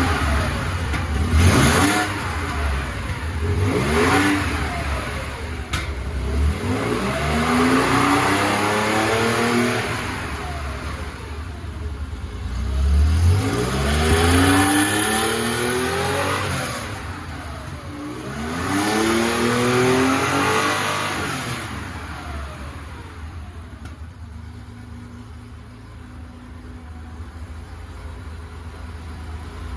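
A freshly rebuilt 1969 Porsche 911E air-cooled flat-six, coupled to its gearbox, running on a test bench as a post-restoration check. Its throttle is blipped about five times, each rev rising and falling in pitch, and it settles back to a steady idle over the last several seconds.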